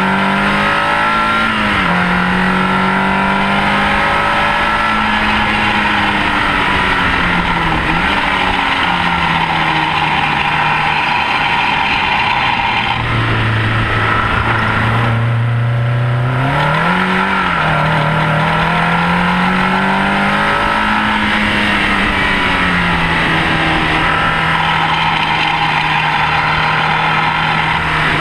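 Rover K-series VVC four-cylinder engine in a Mini at racing speed on track, its note rising and stepping between gears. About halfway through the revs drop low for a few seconds as the car slows for a corner, then climb hard again. Constant wind and tyre noise lies under the engine.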